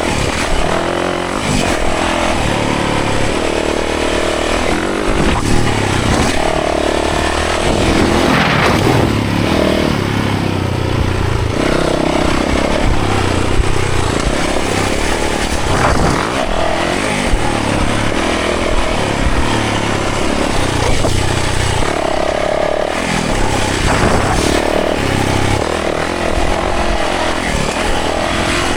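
Yamaha 450 dirt bike's four-stroke single-cylinder engine revving up and down repeatedly while riding a trail, over a steady rushing noise.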